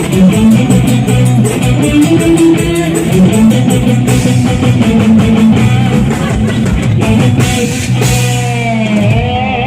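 Live band music from a mor lam stage band: electric guitar over a drum-kit beat, with a voice coming in near the end.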